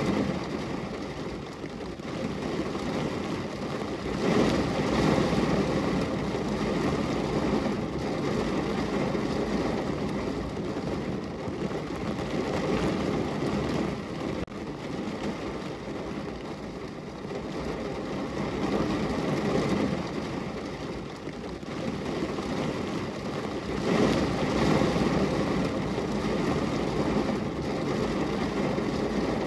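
Steady rain falling on a window, an even patter and hiss of drops that swells a little louder twice.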